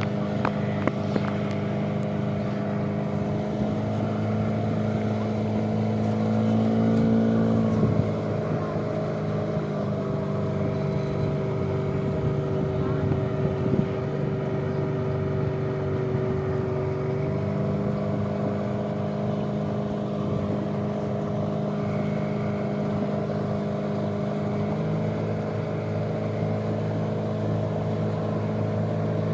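Motorboat engine running steadily. Its pitch rises a little, drops about eight seconds in as the throttle eases, and picks up again after about seventeen seconds.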